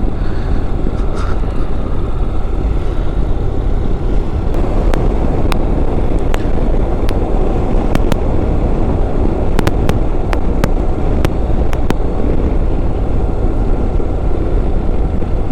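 Motorcycle under way, heard from the bike: steady wind rush over the microphone with engine and road noise beneath it, and a scattering of sharp clicks through the middle.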